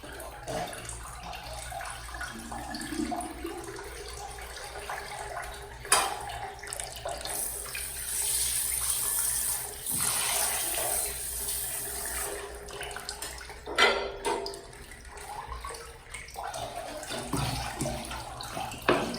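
Water running and splashing at a sink, heaviest in the middle stretch, with a few sharp knocks.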